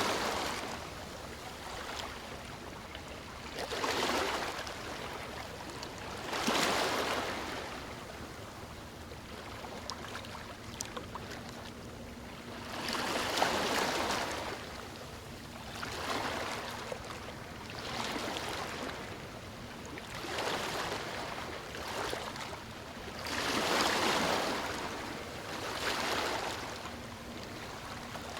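Small sea waves breaking and washing on the shore. The surf swells up and fades away roughly every two to three seconds over a constant hiss of water.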